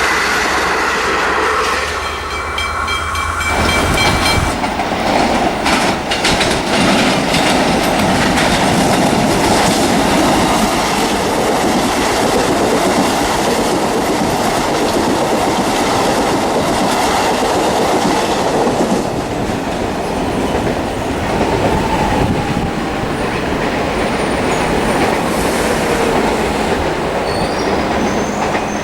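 A train running on the rails, its wheels clattering over the track joints. The sound thickens and grows a little louder about four seconds in.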